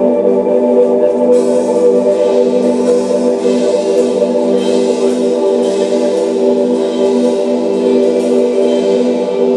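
Live shoegaze band playing a dense, sustained wall of chords, with a bright hissing wash coming in about a second in and pulsing steadily over it.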